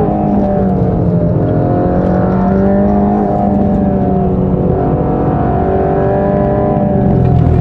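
Mercedes-AMG GT Black Series' twin-turbo 4.0-litre flat-plane-crank V8 under full throttle down a straight, its note climbing steadily and dipping briefly twice as it shifts up.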